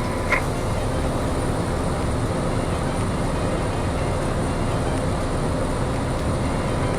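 Piper Cherokee's piston engine and propeller droning steadily, heard inside the cockpit in flight in the landing pattern. A short high chirp sounds about a third of a second in.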